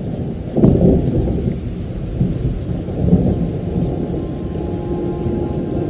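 Thunderstorm: thunder rumbling over heavy rain, with a sudden loud clap about half a second in that rolls on and slowly fades.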